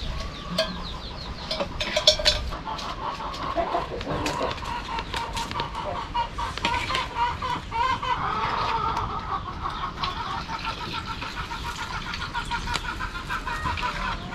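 Chickens clucking: a run of short, quickly repeated calls that grows busier in the second half.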